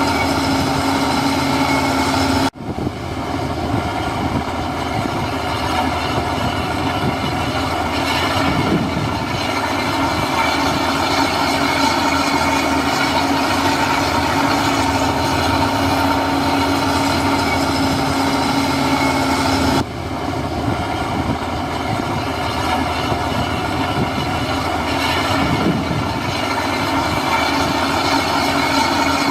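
Heavy diesel earthmoving machinery running steadily, an engine hum with a constant pitch. It cuts out abruptly for a moment twice, about two and a half seconds in and again about twenty seconds in.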